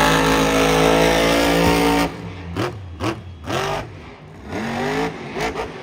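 Monster truck engine held at high revs for about two seconds, then cutting back abruptly, followed by four or five short throttle blips that each rise and fall in pitch.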